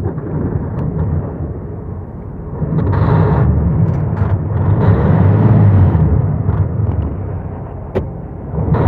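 Freightliner Cascadia's diesel engine on a cold start in freezing weather, another attempt to get it going, rumbling unevenly. It grows louder about three seconds in, eases off, and there is a sharp click near the end.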